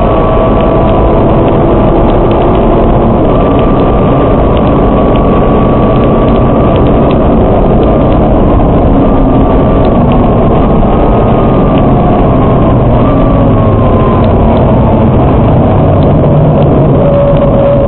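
Nissan GT-R R35's twin-turbo V6 heard from inside the cabin while lapping, a loud steady rumble whose engine pitch falls through the middle and climbs again near the end.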